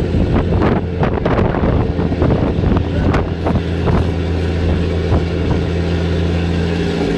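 A boat's engine running steadily at a low, even pitch, with scattered short knocks or splashes, most of them in the first half.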